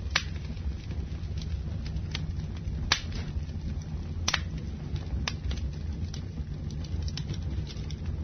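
Fire burning, with a steady low roar and irregular sharp crackles and pops; the loudest pops come a moment in, about three seconds in and about four seconds in.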